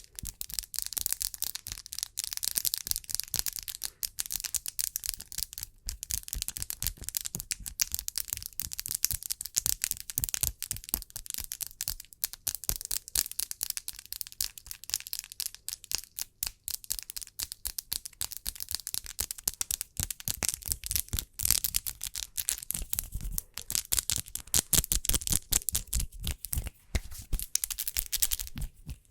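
Close-miked ASMR hand sounds: fingernails tapping and hands rubbing, making a dense, unbroken run of quick crisp taps and crackles.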